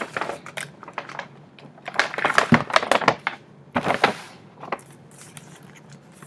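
Paper and gift-bag packaging being rummaged through by hand: rustling and crinkling with many sharp clicks, densest about two seconds in, and a short crinkle about four seconds in.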